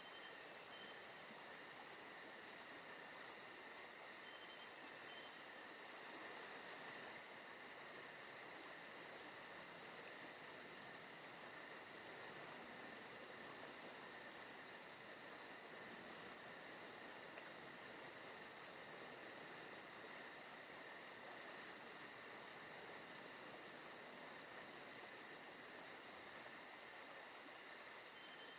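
Faint forest ambience: a steady chorus of crickets trilling on and on, with a fast, even pulse.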